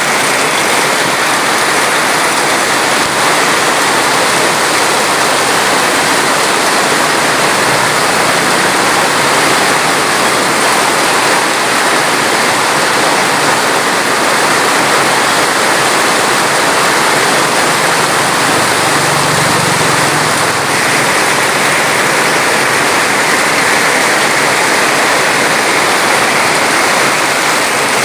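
Steady, loud rushing water that neither swells nor fades.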